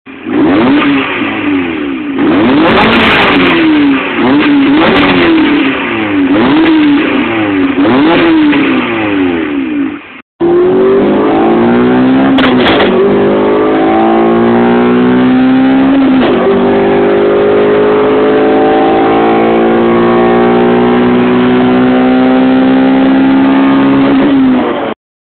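Car engine heard from inside the cabin, revved up and down over and over. Then, after a cut, it pulls at full throttle through the gears on a quarter-mile run, the pitch climbing steadily and dropping back at two gear changes.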